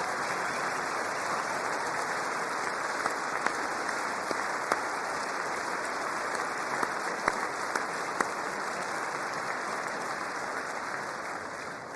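Large audience applauding steadily, with individual claps standing out, tapering off near the end.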